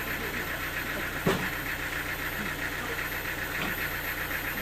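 Sawmill machinery running steadily with a fast, even pulsing, and a single short knock just over a second in.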